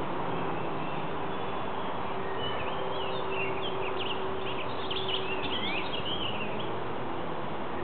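A flurry of rapid bird chirps and trills for a few seconds in the middle, over a steady rushing background noise.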